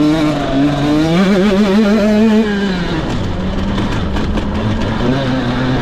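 Motocross bike engine under throttle, its pitch climbing about a second in, dropping off around three seconds in, then running lower until it starts to climb again near the end.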